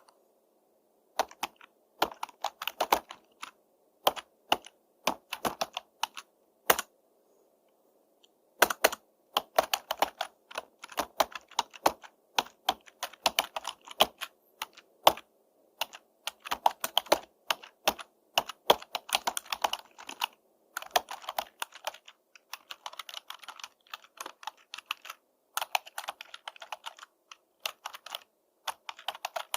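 Typing on a computer keyboard: runs of quick key clicks broken by short pauses, with a longer silent gap about seven to eight seconds in.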